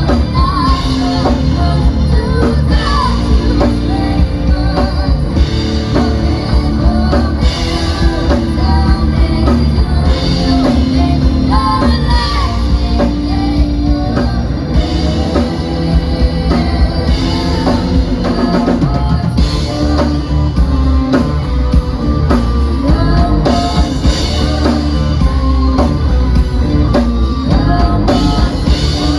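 Live rock band playing loudly: drum kit, electric guitar and bass, with a singer's voice over the band.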